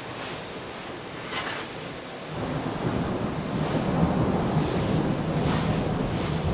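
Storm outside a mountain hut: a steady hiss of wind and rain with short gusting swells, then a low rumble of thunder that comes in about two seconds in and rolls on louder.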